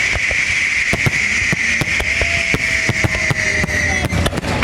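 Fireworks going off: many sharp bangs and crackles over a steady hiss, which stops about four seconds in.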